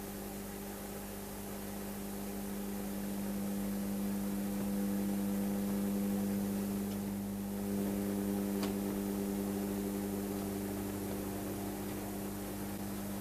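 Model Class 35 Hymek locomotive's sound decoder playing a steady diesel engine drone through its small speaker, swelling slightly in the middle, with a couple of faint clicks.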